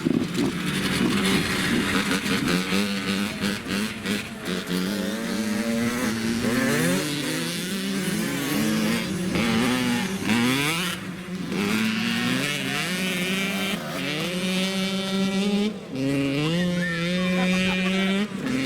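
Dirt bike engine revving hard and accelerating through the gears. The pitch climbs, drops at each shift and climbs again, over and over, then holds steadier near the end.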